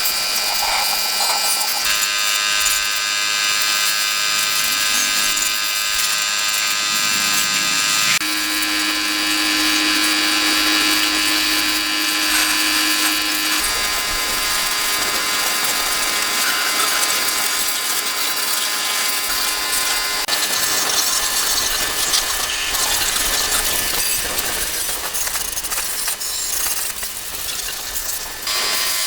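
Power tools running while the engine is worked on, with ratchet-like clicking; the pitch of the whine changes suddenly several times.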